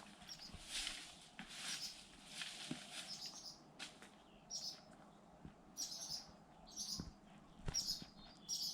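Short high bird chirps repeating in the second half. Before them comes a rhythmic scratchy rustle about every 0.7 s, and a couple of soft knocks come near the end.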